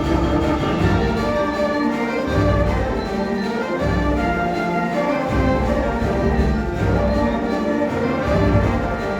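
High school concert band playing: sustained wind chords over low notes that come and go.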